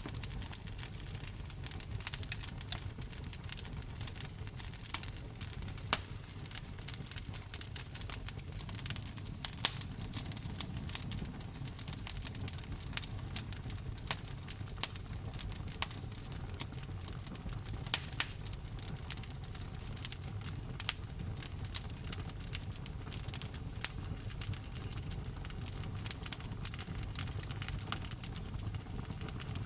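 Wood fire burning in a fireplace: a steady low rumble of flame with frequent irregular crackles and sharp pops from the burning logs, a few pops louder than the rest.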